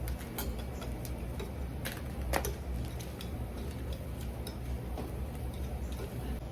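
Scattered, irregular light clicks and taps over a steady low rumble.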